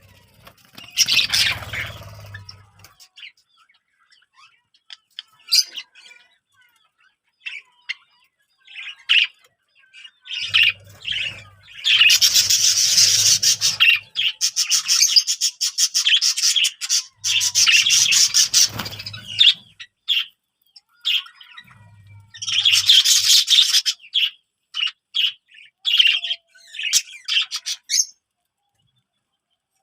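Birds chirping and twittering in bursts of rapid high-pitched chirps, with dense chatter about a third of the way in and again later, and scattered single chirps between.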